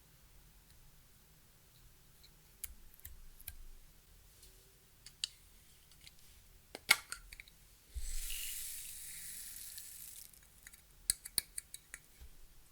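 Small clicks and taps from handling makeup and slime-mixing materials, with a quick run of clicks near the end. About two-thirds of the way in, a steady high hiss lasts for about two seconds.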